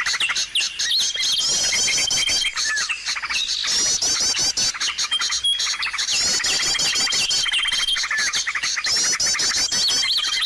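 Busy mix of small songbirds' chirps, trills and rapid twitters, a bird-lure recording meant to draw small birds in. A thin, high, steady whistle held for about a second recurs several times among the chirping.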